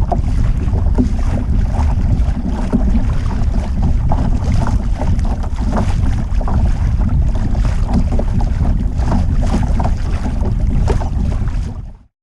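Wind buffeting the microphone on a kayak at sea, with small splashes of water against the hull, cutting off abruptly near the end.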